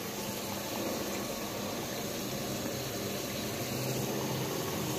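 Browned onions with ginger-garlic paste and ground spices frying in hot oil in a cooking pot, a steady sizzle.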